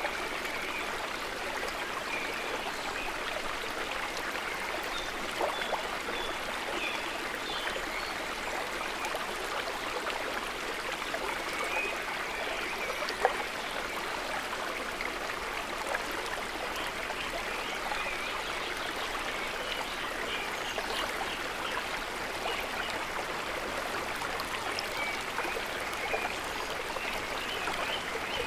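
A stream of running water flowing steadily, with small bubbling and trickling sounds over the rush and one brief sharp tick about halfway through.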